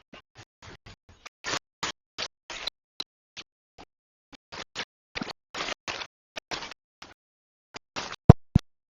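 A run of short, irregular scraping and rustling strokes, then two sharp knocks near the end.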